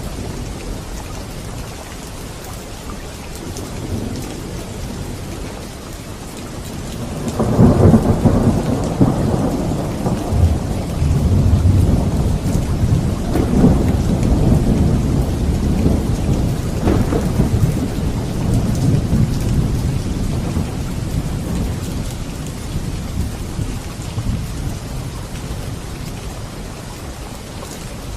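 Steady rain with a long rolling thunder rumble. The rumble breaks in loudly about seven seconds in, rolls on with rises and falls for roughly fifteen seconds, and fades away, leaving the rain alone.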